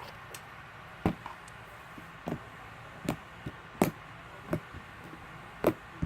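Thick cream-cheese-style slime being pressed and poked by hand, giving short sharp pops and clicks about once every half second to second, over a steady fan hum.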